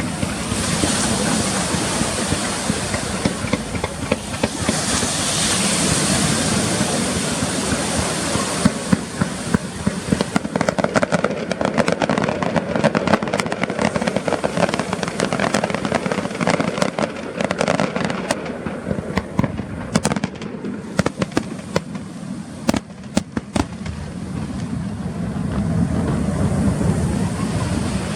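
Fireworks display: a steady hiss and crackle of bursting shells, then from about nine seconds in a dense run of sharp bangs and crackling that thins out again near the end.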